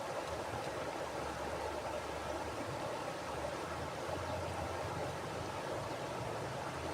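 Mountain river flowing over rocks: a steady rush of water with a low rumble underneath.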